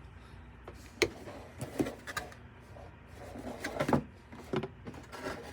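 Cardboard Funko Pop boxes being handled: a sharp tap about a second in, then a few knocks and scrapes, busiest around four seconds, over a low steady room hum.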